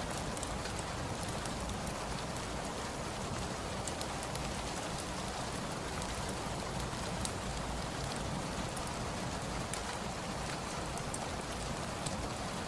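Steady rain, an even hiss, with scattered small sharp crackles from a wood fire.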